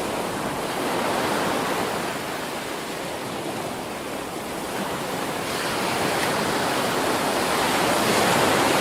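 Ocean surf: waves breaking and washing up a beach as a steady rush, swelling louder toward the end.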